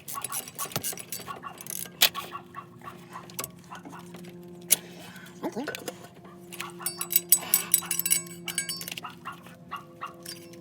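Hand tools clicking and clinking on metal as a ratchet and socket work a tight spark plug loose, with sharp knocks and a cluster of metallic clinks in the second half, over a steady low hum.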